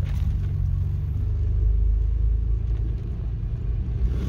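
Toyota 4x4's engine and road noise heard inside the cab: a steady low rumble as the vehicle pulls out onto the highway.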